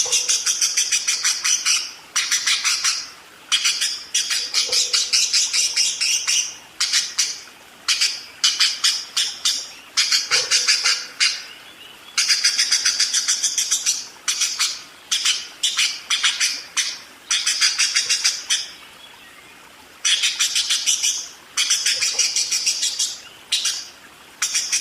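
Budgerigars chattering in fast runs of sharp chirps, bursts of one to two seconds with short pauses between.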